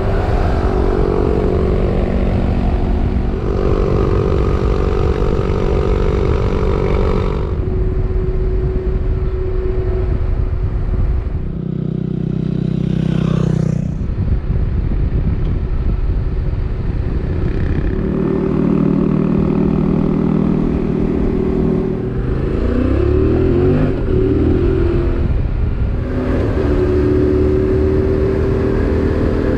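Motorcycle engine running at road speed under heavy rushing wind noise, its pitch shifting up and down briefly around the middle and again later.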